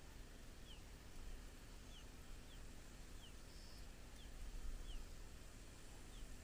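Faint, thin, very short falling chirps of a small bird, about seven of them spaced irregularly, over a steady low rumble.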